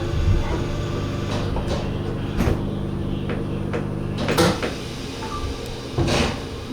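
Steady hum inside a Kintetsu 80000 series Hinotori train, with a few sharp knocks and clatters; the hum drops away about four seconds in.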